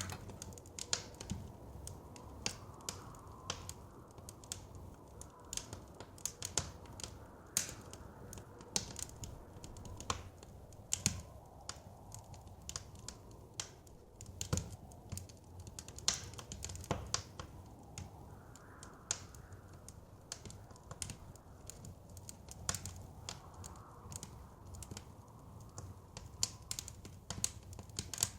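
Wood fire crackling in a fireplace, with irregular sharp pops and snaps over a low steady rumble. Now and then a soft gust of wind swells and fades.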